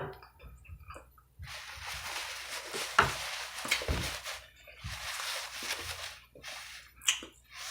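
A person chewing food close to the microphone, in two stretches of a few seconds each, with small wet mouth clicks between them.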